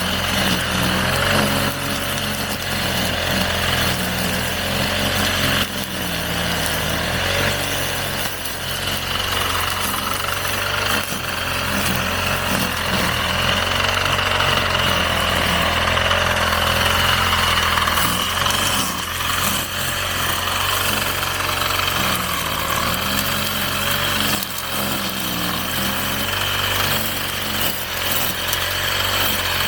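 Petrol brush cutter (grass trimmer) running at cutting speed, its engine pitch wavering slightly under load, with a steady high whine over the top.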